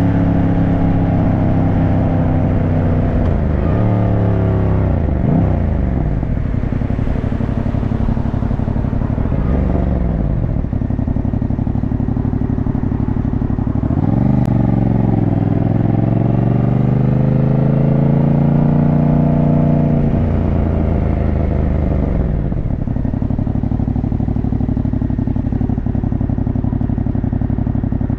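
Yamaha motorcycle engine running under way, heard from on the bike. Its pitch drops and climbs again about four seconds in as the gears change, rises steadily under acceleration from about fourteen seconds, then falls back as the throttle eases around twenty seconds.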